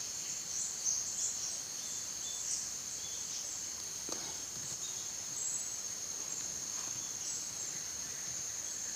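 Steady, high-pitched chorus of forest insects, with a few faint short chirps over it.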